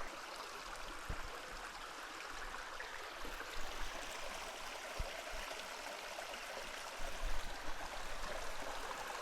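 A stream flowing under a small bridge: a steady, even rush of running water, with a few soft low bumps now and then.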